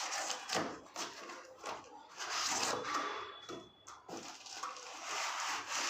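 Packaging being handled during an unboxing: a few sharp clicks and taps in the first two seconds, then stretches of rustling and rubbing from plastic and cardboard wrapping.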